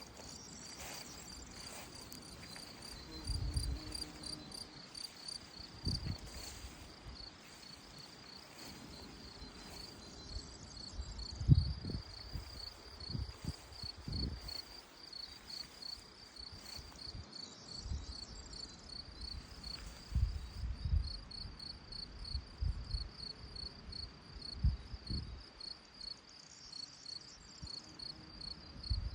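A cricket-type insect chirping steadily in a rapid, even, high-pitched pulse. Low thumps and rumbles come and go beneath it, the loudest about eleven seconds in.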